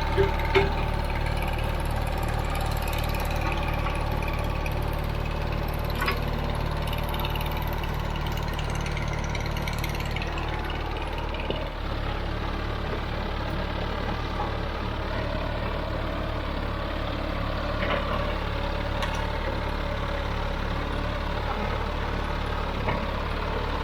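Allis-Chalmers HD5 bulldozer's GM two-stroke diesel engine running steadily, its note shifting slightly about halfway through, with a few brief knocks.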